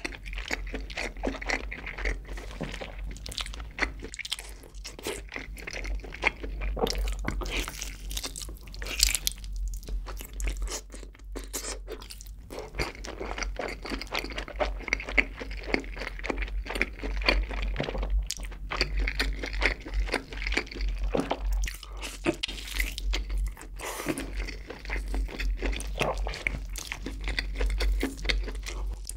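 Close-miked chewing and biting of a sauce-glazed roasted chicken drumstick: a dense, continuous run of small clicks and crackles.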